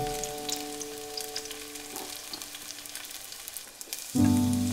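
Zucchini pancakes frying in oil in a pan, a steady fine crackling sizzle. Background music comes in loudly near the end.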